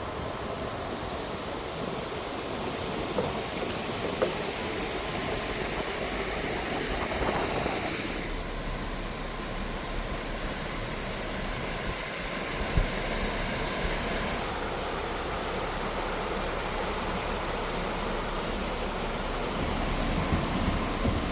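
A car driving along, giving a steady rush of road and wind noise with a few light knocks. About eight seconds in, the high hiss drops away, leaving a lower steady hum.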